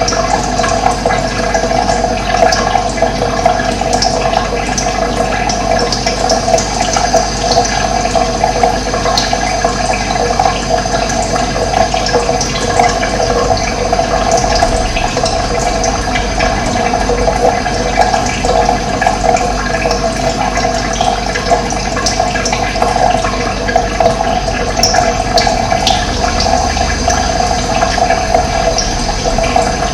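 Running water flowing steadily, with scattered short, high bird calls over it.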